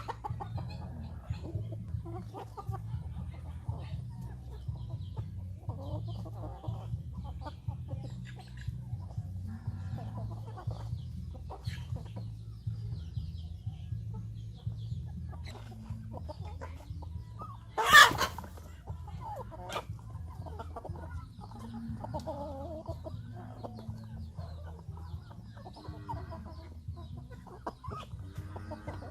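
A flock of chickens clucking in many short, scattered calls over a steady low rumble. One loud, sharp noise stands out about two-thirds of the way through.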